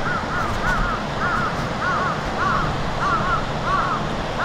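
Birds calling in a quick, steady series of short, arching calls, about two or three a second, over a steady background hiss.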